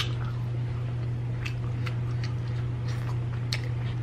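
Chewing and mouth sounds from a person eating cheese-dipped fried chicken: scattered soft wet clicks, several in the second half. A steady low electrical hum runs underneath.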